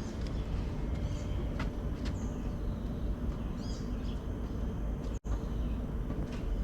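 Small birds giving short, high chirps again and again over a steady low rumble. The sound cuts out for an instant about five seconds in.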